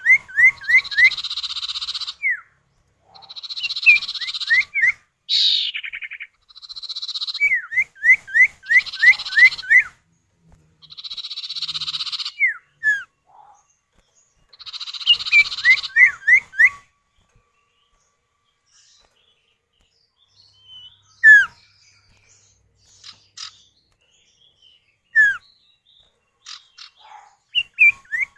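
Common iora (cipoh) male and female calling back and forth: harsh buzzy rattles alternate with quick runs of about five short falling whistles. After about 17 seconds the calling thins out to a few scattered single notes.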